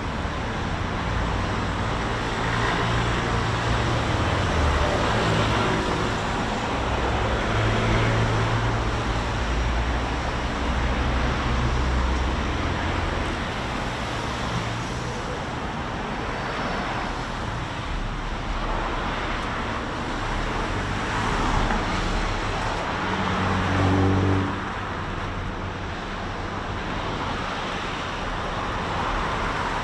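Road traffic: cars and heavier vehicles passing one after another in a steady hum, with one louder engine passing late on before the level drops.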